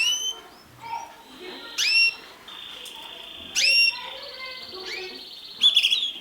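Mosaic canaries calling and singing: loud, sharply rising calls about every two seconds over a steady rolling trill that starts a couple of seconds in, with a brief louder trill near the end.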